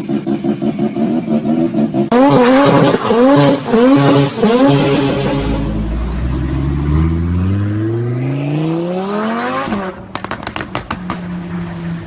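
A high-performance car engine idling with a lumpy, pulsing beat, then revved hard in several quick blips, each rising and falling in pitch. A long acceleration follows, its pitch climbing steadily for about four seconds before it cuts off abruptly, and the engine settles back to a pulsing idle with a few sharp cracks.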